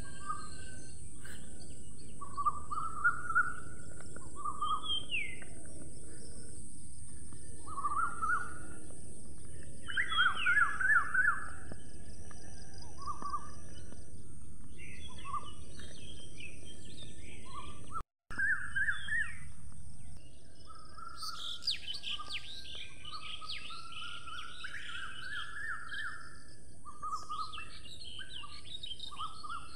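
Birds chirping and calling in short repeated phrases over a steady high hiss. Partway through, the sound cuts out for a moment, and a busier stretch of chirping follows.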